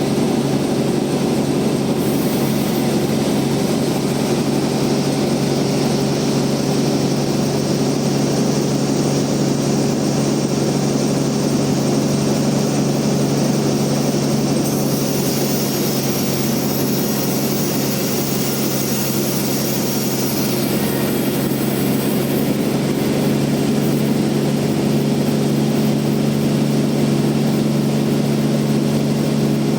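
Band sawmill running with a steady, unchanging engine drone. A brighter hiss comes in over it for several seconds midway through.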